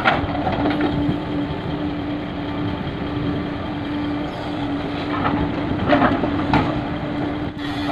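Heavy diesel dump truck engine running with a steady drone while being loaded with fill soil, with a few short knocks about five to six and a half seconds in.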